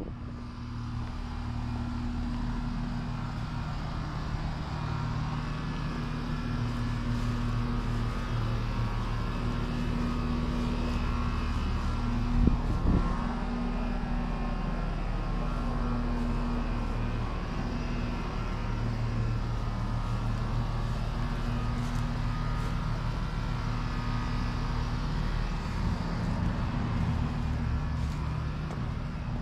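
A motor or engine running steadily with a constant hum, and a single brief knock about twelve seconds in.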